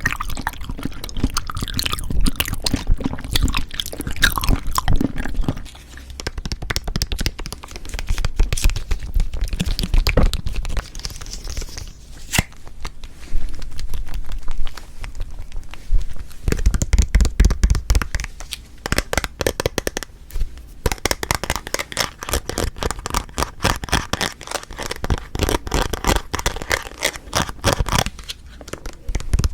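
Close-miked chewing of Cheonhyehyang citrus cup jelly: a dense run of small wet mouth clicks and crackles, with a few brief lulls.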